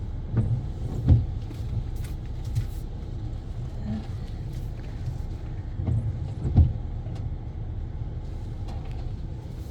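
Pickup truck running at low speed while reversing, a steady low engine rumble with a few dull thumps, the loudest about a second in and again about six and a half seconds in.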